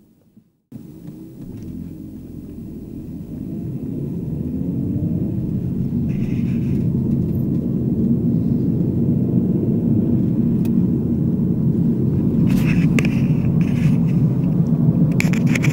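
Vehicle on the move: a steady low rumble that builds over the first few seconds, then holds.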